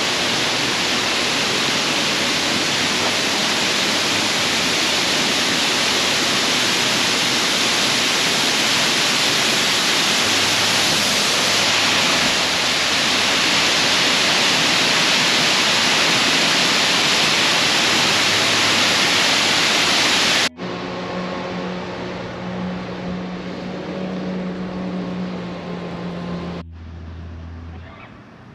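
Waterfall: a steady, loud rush of falling water. About two-thirds of the way through it cuts off abruptly to a quieter sound with a low steady hum, which changes again near the end.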